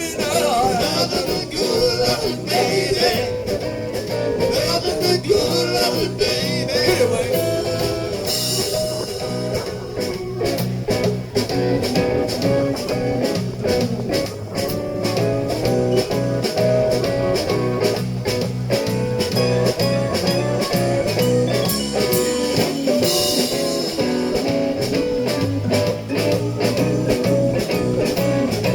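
Live blues-rock band playing an instrumental passage with guitar and drums keeping a steady beat.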